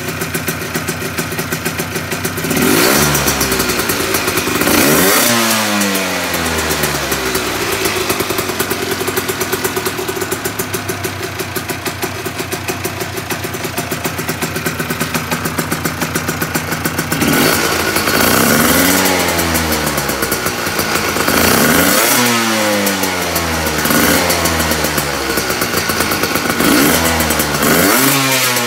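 Cagiva 125 motorcycle engine breathing through an Arrow exhaust, idling and blipped on the throttle: two revs early on, about ten seconds of steady idle, then a run of quick revs in the second half, each falling back to idle.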